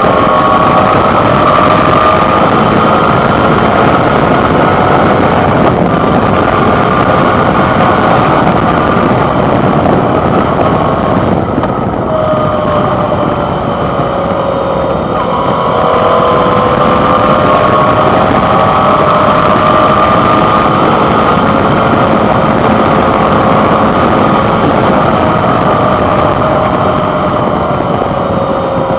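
Suzuki V-Strom 650's 645 cc V-twin engine running under way, with wind and road noise rushing over a handlebar-mounted microphone. The engine note falls off about twelve seconds in, then climbs again around fifteen seconds.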